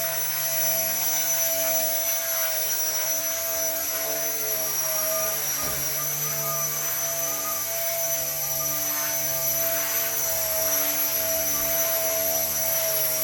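Small electric RC helicopter, an RC ERA 1/48 scale Huey, flying while carrying a heavy toy monster truck slung beneath it. Its motor whines steadily over the hum of the spinning rotor.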